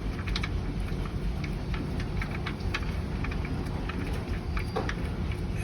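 Steady low rumble of shop background noise with scattered light clicks and ticks, as a drain plug is handled and threaded back into an oil pan by hand.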